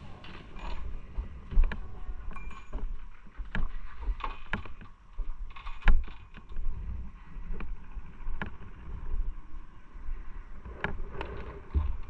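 Wind buffeting the microphone in uneven low gusts, with scattered sharp clicks and knocks.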